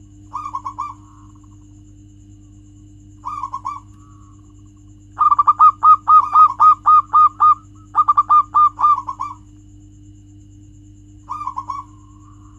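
Zebra dove cooing in quick staccato runs of short coos. There is a brief phrase just after the start, another about three seconds in, a long run of about fifteen coos from about five to nine seconds, and a short phrase near the end, all over a steady low hum.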